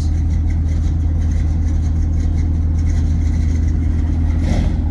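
Chevrolet Camaro ZL1's supercharged 6.2 L LT4 V8, fitted with a Borla exhaust, idling with a steady low drone.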